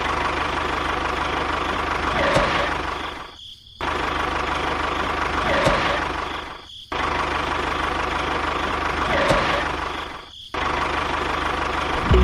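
Engine sound running steadily, with a dense mechanical hum. It comes in three near-identical cycles of about three and a half seconds, each swelling and then cutting out for a moment before starting again, like a looped engine recording.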